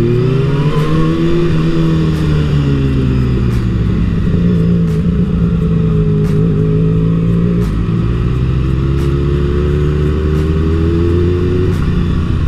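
Kawasaki Ninja ZX-6R 636's inline-four engine running at low revs as the bike rolls slowly. Its pitch rises and falls gently with small throttle changes and climbs again near the end.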